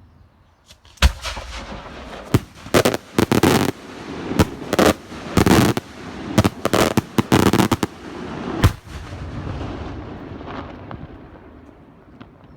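Fireworks going off: a rapid, irregular run of loud bangs with crackling between them, starting about a second in. A last sharp bang comes about two-thirds through, then an echoing rumble fades away.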